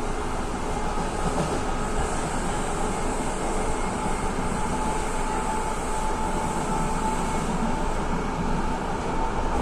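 Inside a moving electric train at speed: steady running noise of wheels on rails and carriage rumble, with a faint steady whine that grows a little stronger near the end.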